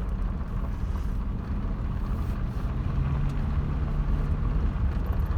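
Truck engine and drivetrain running under way, heard as a steady low rumble with a hum whose pitch drops about halfway through. The truck is pulling through the low gears on a freshly rebuilt transmission.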